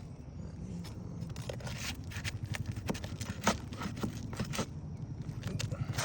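Asphalt roof shingles being worked by hand and tool: a run of irregular scrapes and sharp clicks, with one louder knock about three and a half seconds in.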